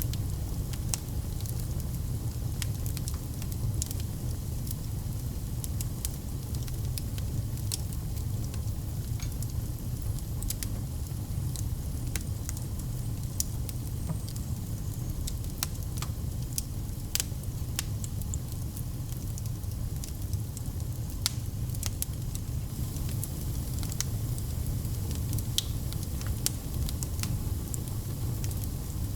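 Fire burning in a fireplace, crackling and popping at irregular moments over a steady low rumble.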